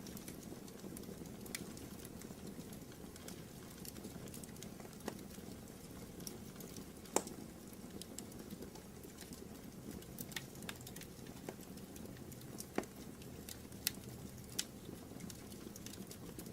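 Fireplace fire crackling: irregular sharp pops and snaps over a steady low rustle of burning, the loudest pop about seven seconds in.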